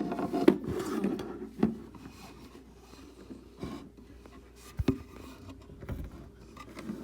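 Light knocks, rubbing and scraping of objects being handled, with a single heavier thump about five seconds in.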